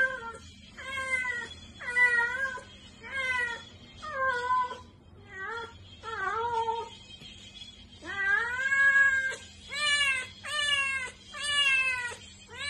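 Ginger cat meowing loudly and repeatedly, about a dozen drawn-out yowling calls roughly one a second, with one longer call about two-thirds of the way through.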